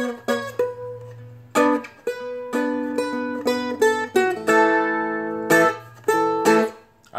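Seagull Merlin, a four-string dulcimer-style acoustic instrument, picked one note at a time in a solo melody. Some notes are cut short with quick mutes and others are left to ring for about a second.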